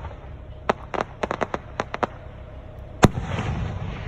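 Fireworks going off: a quick string of about ten sharp crackling pops, then one loud boom about three seconds in, with a rumbling echo after it.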